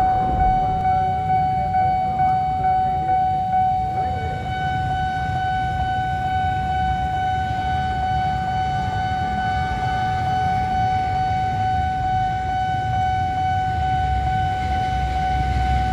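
Railway level-crossing warning alarm sounding one steady high electronic tone while the barrier is down, over a low rumble. Near the end the noise of an approaching train begins to build underneath it.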